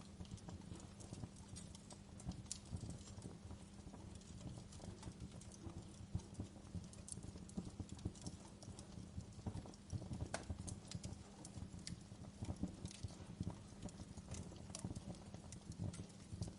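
Wood fire crackling in a fireplace: irregular snaps and pops over a low, steady rumble of the flames.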